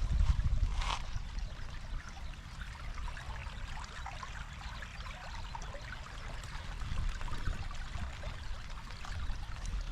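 Steady rain falling, many small drops ticking on an umbrella, with a low rumble in the first second.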